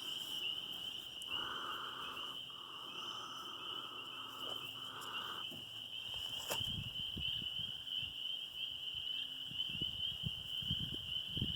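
Steady chorus of insects chirring at one high pitch, with a second, lower buzzing call for a few seconds near the start. Soft low knocks and a sharp click in the second half.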